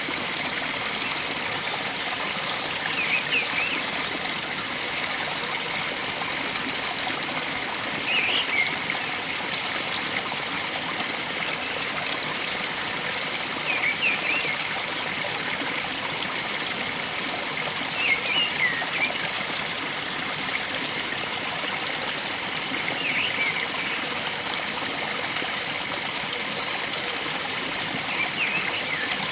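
Steady rush of a flowing forest stream. A bird gives a short, high chirping call six times, about every five seconds.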